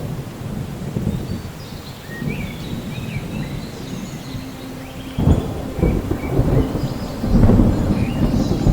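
Thunderstorm: rain with low rolling thunder. The thunder breaks in suddenly about five seconds in and swells louder near the end. Faint short high chirps sound above it.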